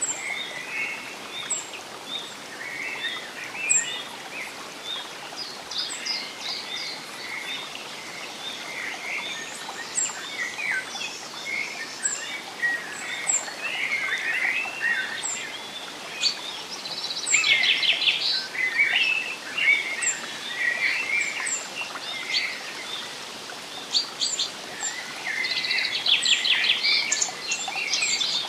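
Several birds singing and calling together in a forest chorus, with a thin high note repeating about once a second and louder rapid trills twice, over a steady soft hiss.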